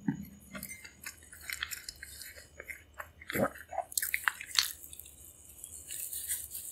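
Close-miked chewing with many small wet mouth clicks. About four seconds in, a chocolate cupcake in a paper liner is lifted to the mouth and bitten, with a louder crackle of paper and crumb.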